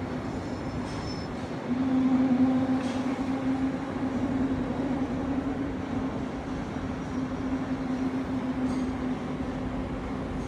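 Heavy machinery running with a steady hum and a rumbling noise underneath. It grows louder about two seconds in, then settles back.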